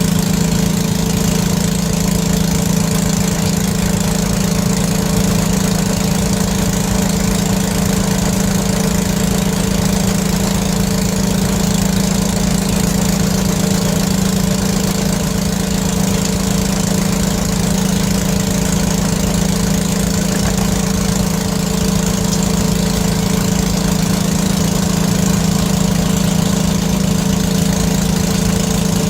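An engine idling steadily at an unchanging speed, with a strong low hum and no revving.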